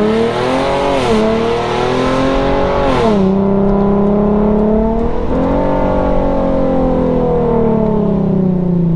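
Infiniti G37x's 3.7-litre V6 under hard acceleration, heard through an exhaust with its muffler and resonator deleted. The pitch climbs, drops sharply at gear changes about one and three seconds in, climbs again, then falls slowly near the end as the throttle eases.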